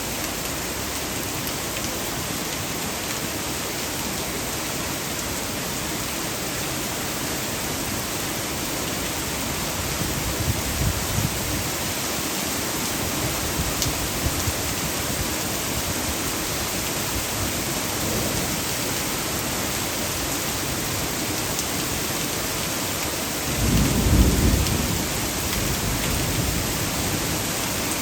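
Torrential rain pouring down steadily, with rainwater overflowing from a roadside storm drain. Low thunder rumbles come about ten seconds in, and a louder one near the end.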